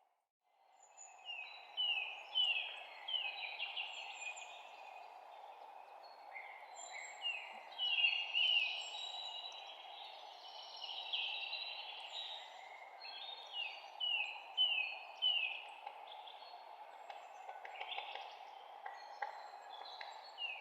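Spring forest songbirds singing: runs of quick, downward-slurred chirps and whistles, several birds overlapping, over a steady background hiss. The ambience drops out for a moment right at the start, then fades back in.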